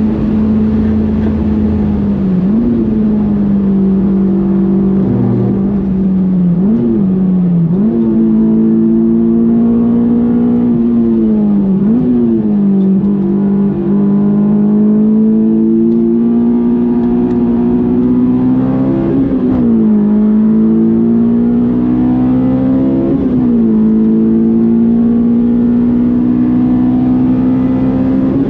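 Honda S2000's 2.2-litre F22 four-cylinder engine running hard at high revs under load. Its note climbs slowly through long pulls, broken by about half a dozen quick gear changes, each a brief jump and dip in pitch.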